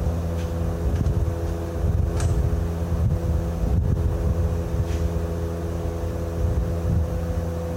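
An engine running steadily at an even idle, with a few faint clicks over it.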